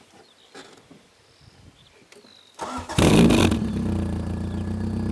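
Supercharged Honda D15B2 four-cylinder engine, breathing through a 4-2-1 header and a 2-inch WMSport WRC silencer, starting about two and a half seconds in after a couple of seconds of faint clicks. It cranks briefly, catches with a loud flare, then settles to a steady idle.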